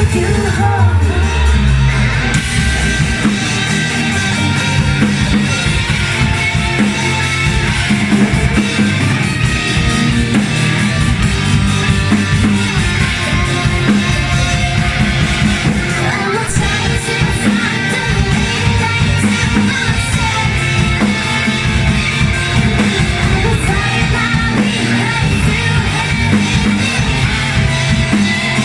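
Live rock band playing a song, with sung vocals over guitar and drum kit.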